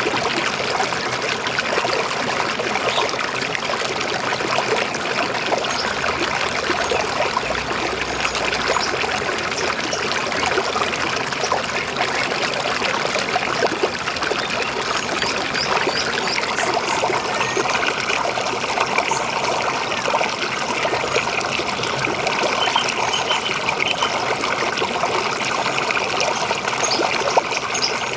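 River water flowing with a steady, even trickling babble.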